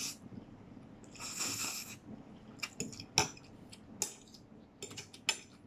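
Close-up eating sounds: chewing a mouthful of pansit canton noodles and sausage, with a short breathy sound about a second in, then a few sharp clicks as a fork touches the plate.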